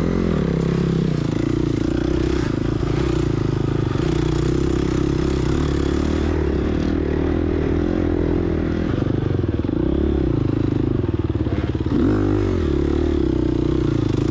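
A 2022 Gas Gas EX250F's single-cylinder four-stroke engine running at mostly steady revs under riding load. It revs up and back down briefly near the end.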